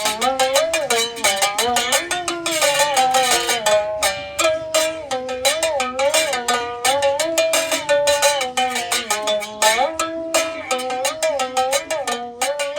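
Homemade one-string berimbau with a car-hubcap resonator, its wire struck in quick, even strokes with a stick while a piece of glass slides along it, playing a melody that bends up and down in pitch.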